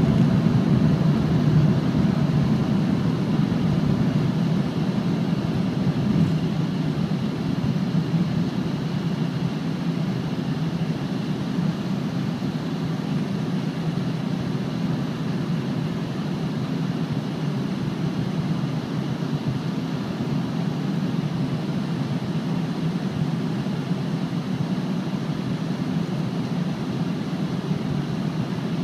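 Steady cabin drone inside a climbing Embraer ERJ 135 regional jet: the rear-mounted turbofan engines and airflow making a deep, even rumble, easing slightly over the first several seconds and then holding level.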